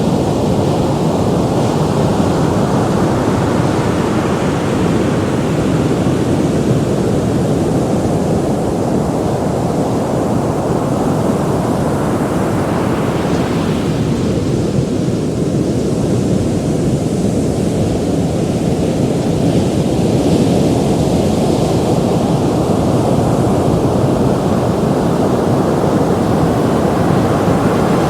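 Ocean surf: a steady wash of breaking waves rolling in, the upper hiss swelling and easing slowly over several seconds.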